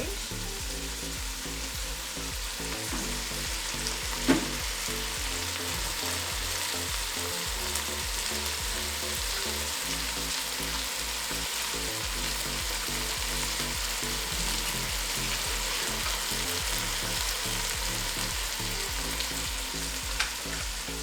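Beef stewing with tomatoes and spices in a sufuria, sizzling steadily over the heat, with a single knock about four seconds in.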